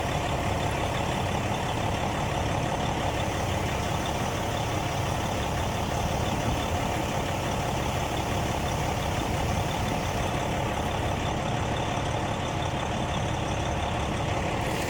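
Fire truck engine idling steadily.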